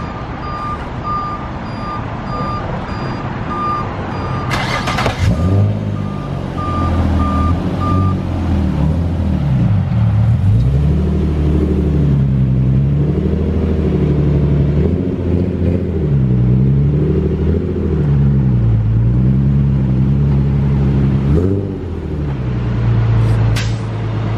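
A vehicle's reversing alarm beeps at a steady pace, about once a second, for the first several seconds. A vehicle engine then runs with its pitch rising and falling again and again as it is revved and eased off.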